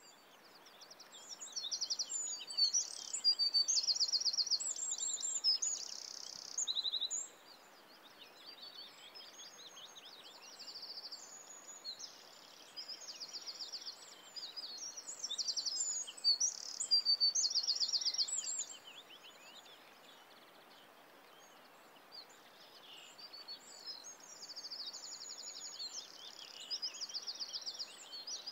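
Many birds singing and chirping, with rapid trills and quick repeated high notes, over a steady outdoor hiss. The song is loudest in the first several seconds and again about halfway through, and thins out in between.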